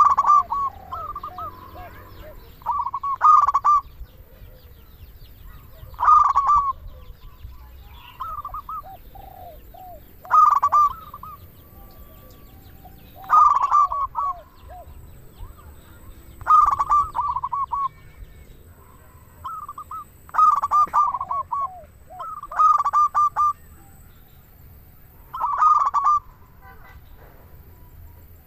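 Perkutut (zebra dove) song: short bursts of rapid, rolling cooing notes repeated every two to three seconds, with fainter, lower coos between the bursts.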